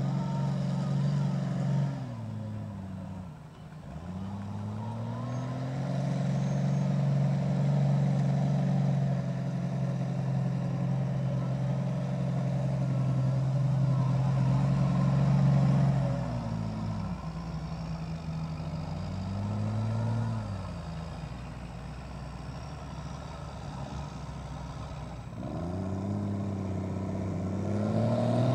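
Mega truck engine revving and held at high revs for long stretches. The revs drop off twice, with a short blip between, then climb again near the end.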